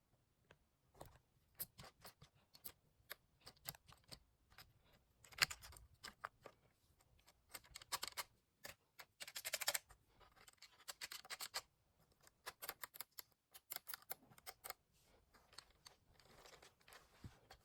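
Irregular small clicks and short scratchy rustles, some coming in quick runs, from the Lego Technic vacuum truck model or its parts being handled.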